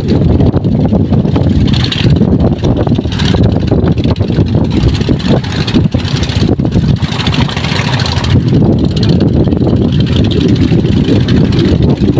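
Strong wind buffeting the microphone, a loud low rumble that rises and falls in gusts.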